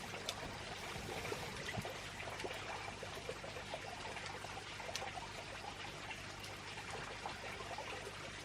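Water trickling and splashing steadily, with many small drips.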